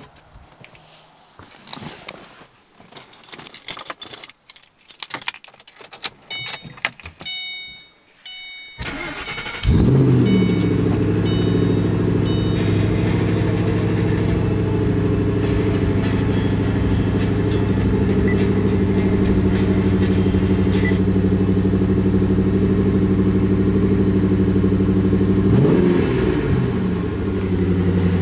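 2009 Shelby GT500's supercharged 5.4-litre V8, fitted with a ported VMP Gen1 TVS supercharger, starting about a third of the way in and then idling steadily, with one brief blip of the throttle near the end. Before the start, clicks and knocks and a short run of electronic chime beeps from inside the car.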